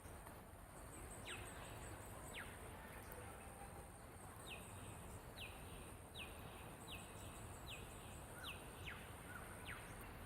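A wild bird calling with thin, sharply falling whistles: two single notes in the first few seconds, then a run of about six evenly spaced notes under a second apart, and a few more near the end. Faint, over low outdoor rumble and a steady high thin tone.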